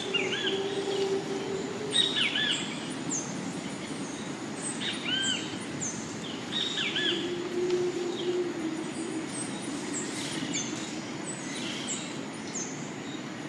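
Rainforest ambience: several birds calling with short arched chirps and high, quick descending notes, over a steady rushing background. A low droning tone sounds briefly twice, near the start and about seven seconds in.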